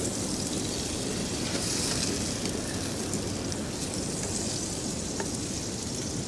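Strong wind blowing steadily, rumbling on the microphone with a high hiss over it.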